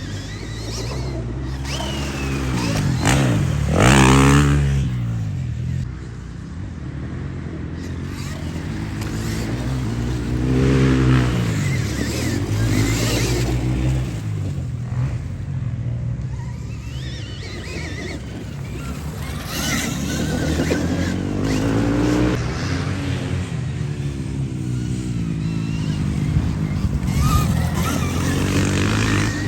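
Stark Varg electric dirt bike riding, its motor whine sliding down and up in pitch again and again as the rider slows and accelerates, over steady rumble and noise.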